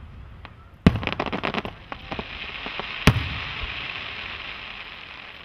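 Fireworks going off: a loud bang about a second in, then a quick run of crackling pops. A second loud bang about three seconds in is followed by a steady crackling hiss that slowly fades.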